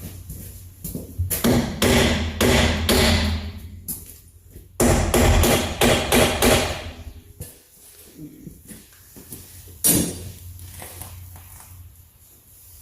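Hammer blows on the metal parts of a pickup truck's rear suspension: two runs of quick, ringing strikes, then one single hard blow about ten seconds in.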